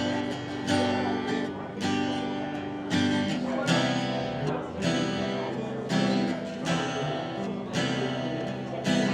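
Acoustic guitar strumming chords at a slow, steady tempo, about one strong strum a second: the instrumental intro of a song before the vocals come in.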